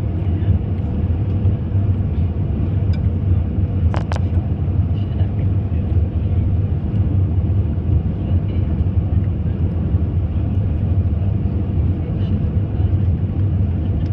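Airbus A320 cabin noise heard from a window seat: a steady, deep rumble of engines and airflow with a faint constant hum. Two quick clicks about four seconds in.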